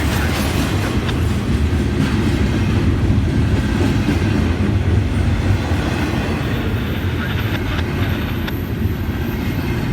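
Florida East Coast Railway freight train rolling past: a steady rumble of rail cars with light wheel clatter on the rails.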